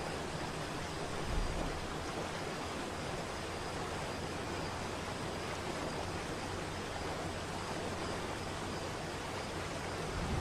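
Waterfall rushing: a steady, even roar of falling water, with a brief low bump about a second and a half in.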